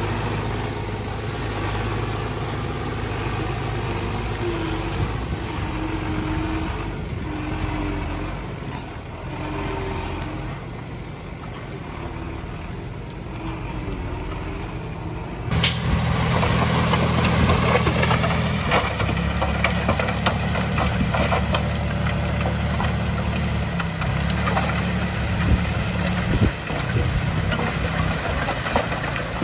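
Heavy diesel construction machinery running steadily. About halfway through it becomes abruptly louder and busier, with many short knocks.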